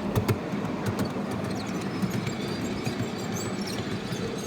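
Miniature park train running along its track, heard from on board: a steady rumble with wheels clicking over the rail joints, and two louder knocks just after the start.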